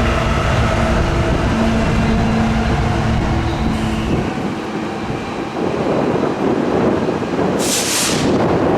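Freight train passing: a diesel locomotive's engine drones steadily, then after about four seconds the engine sound gives way to the even rolling noise of freight cars on the rails. A brief hiss near the end.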